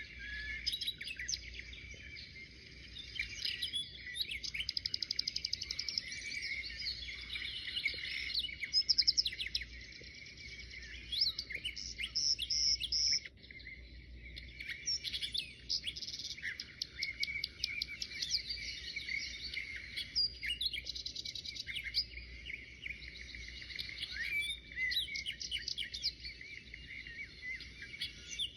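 Several birds chirping and singing at once, a dense mix of short chirps and rapid trills.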